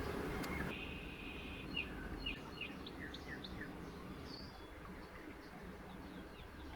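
Small birds chirping: a string of short, high, quick chirps over faint background noise, thinning out after the first half.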